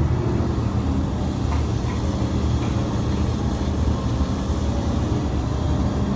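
Heavy diesel engine of earthmoving machinery running steadily under load, with a low, even drone.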